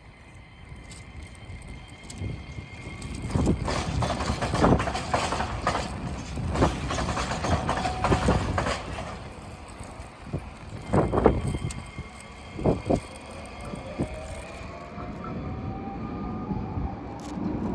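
An Iyotetsu electric rail car crossing a diamond crossing, where the tramline and railway line cross at grade. Its wheels clank loudly as they strike the gaps in the crossing, in a series of separate knocks. A whine rises in pitch near the end.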